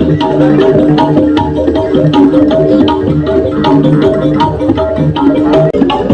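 Loud music with a quick, regular drum beat and a melody over it, played through a carnival sound system.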